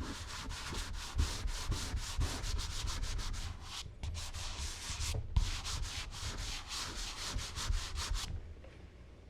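Charcoal being rubbed onto smooth Bristol paper in quick back-and-forth strokes, a dry scratchy shading sound. The strokes pause briefly twice around the middle and stop about a second before the end.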